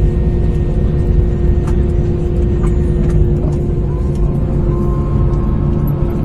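Airbus A321neo cabin noise on the ground before takeoff: a steady low rumble with a constant hum from its Pratt & Whitney PW1100G geared turbofans, and a second, higher steady tone coming in about four seconds in.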